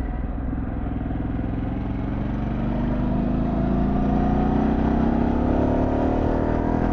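2024 Harley-Davidson Pan America Special's V-twin engine pulling under acceleration, its pitch rising steadily for several seconds and getting a little louder.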